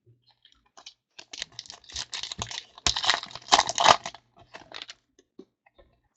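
Trading-card pack being torn open and its foil wrapper crinkled, with light clicks of cards being handled. A dense crackling stretch starts about a second in and lasts around three seconds.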